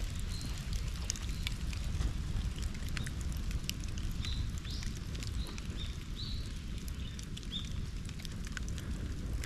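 Bonfire burning, with scattered sharp crackles and pops over a low steady rumble, and a run of short high chirps in the middle.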